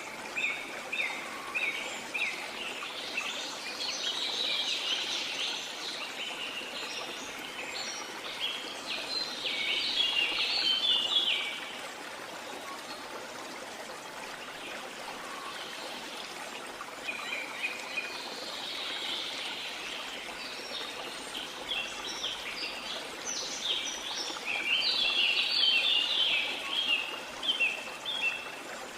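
Rainforest ambience: a steady hiss of rain and running water under many birds chirping and calling. The bird calls come in two busy stretches, one fading out at about eleven seconds and another building from about seventeen seconds.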